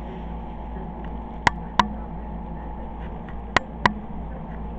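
Steady whir of small cooling fans, cut by two pairs of sharp clicks, one pair about a second and a half in and one near the end.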